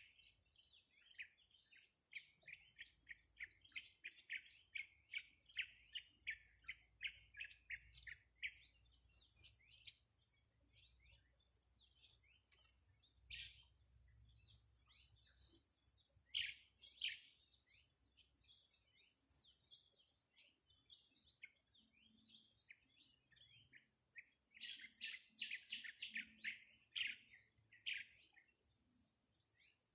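Songbirds chirping: many short, high chirps that come in quick runs, one lasting several seconds from about two seconds in and another near the end.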